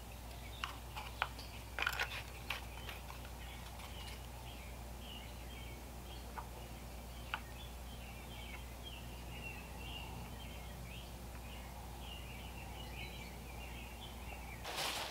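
A small bird twittering steadily in the background over a low steady hum, with a few light clicks and taps in the first few seconds and another at about seven seconds. A burst of rustling starts just before the end.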